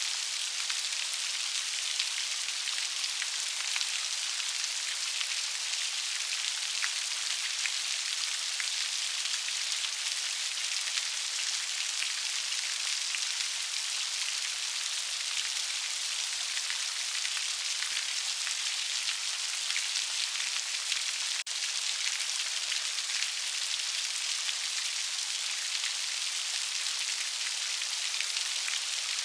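Steady rain with many close raindrops pattering on a surface, an even hiss strongest in the upper range.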